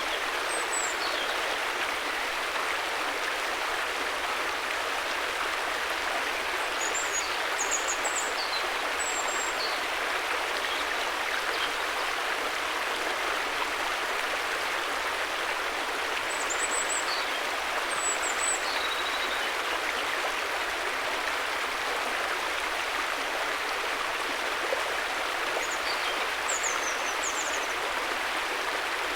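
River water flowing steadily, an even rushing sound with no breaks. Now and then there are a few faint high chirps.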